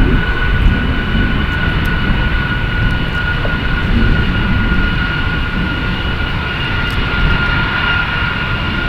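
KC-135 tanker's jet engines running on the ground after landing: a steady high whine over a low rumble.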